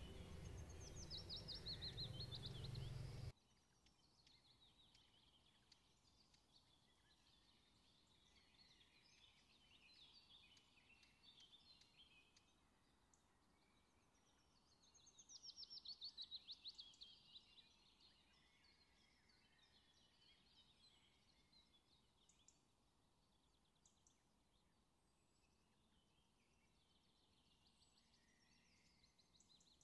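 Faint birdsong: scattered chirps and trills, with one louder trill about fifteen seconds in. Beneath it is a low hum that cuts off suddenly about three seconds in.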